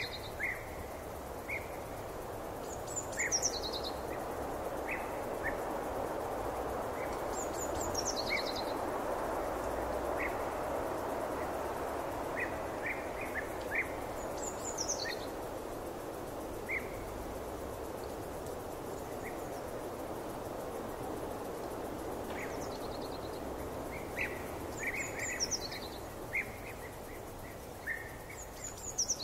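Forest ambience: songbirds calling over a steady rushing background, which swells slightly in the middle. One bird repeats a short high call that slides downward, every few seconds, while others give scattered short chirps.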